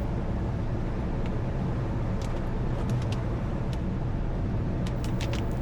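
A car driving with a steady low rumble of road and engine noise. A few faint, scattered clicks come about two seconds in and again near the end.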